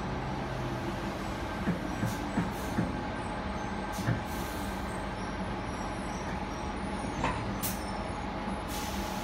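Sydney double-deck suburban electric train heard from inside the carriage while running: a steady rumble of wheels on rail with a faint hum from the traction equipment, a few knocks from the track and a couple of short hisses.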